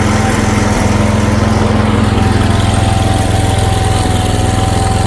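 Garden tractor engine running steadily at an even, unchanging speed.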